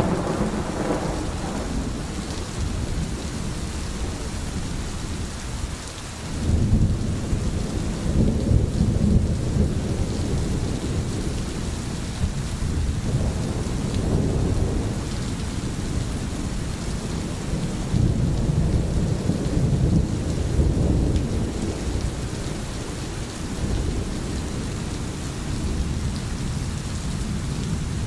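Steady heavy rain with rolling thunder. A rumble fades away in the first second, another builds about six and a half seconds in, and more low swells follow later.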